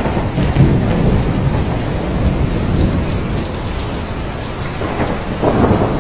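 Steady heavy rain with a deep rolling rumble of thunder that eases off a little mid-way and swells again near the end.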